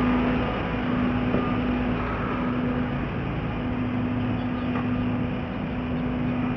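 Truck engine running steadily, a constant low hum over a noisy rumble.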